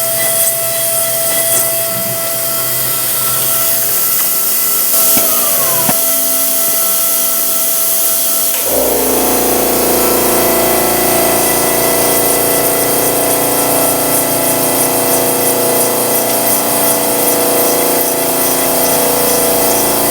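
Versamill 5X200 dental milling machine grinding an e.max ceramic block: a high-speed spindle whine over a loud grinding hiss. About five seconds in one tone drops in pitch, and about nine seconds in the whine changes to a new set of lower tones with an added low hum.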